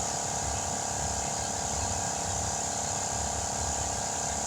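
Compressed air hissing steadily into a tire through its valve stem as it is inflated, with a steady hum underneath.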